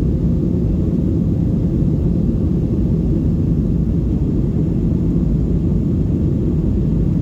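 Cabin noise of a Boeing 737-700 after takeoff: a steady, loud, low rumble of the CFM56-7B jet engines and the airflow, with a faint steady hum over it.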